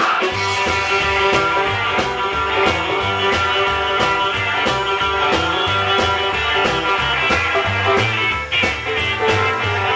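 Live rock and roll band playing an instrumental break with electric guitar to the fore over a steady beat of bass, drums and piano, with no singing.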